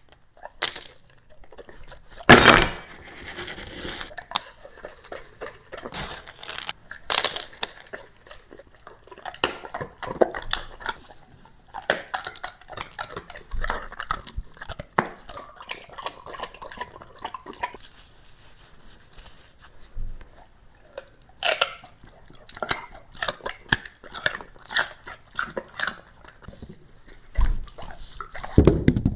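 A dog chewing and crunching food, with irregular crunches and clicks; the loudest crunch comes about two seconds in.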